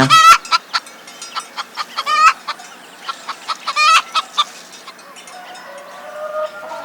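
Domestic hen clucking: a run of short clucks, broken by three louder calls near the start, about two seconds in and about four seconds in.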